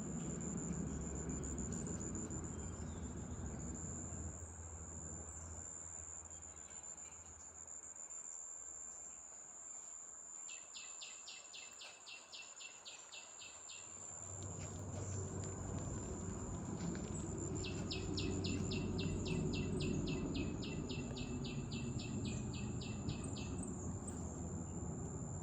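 Steady high-pitched drone of insects in a garden, with a rapid series of evenly repeated high chirps that comes twice, about three to four a second, near the middle and again later. A low rumble runs underneath, fading in the middle and returning louder.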